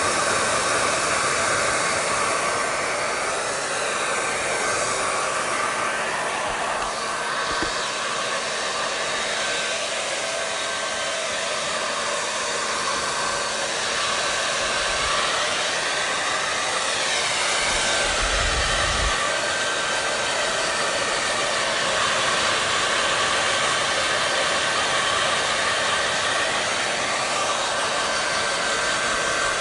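Hair dryer running steadily: a constant rush of blown air with a faint steady hum in it. There is a brief low rumble about two-thirds of the way through.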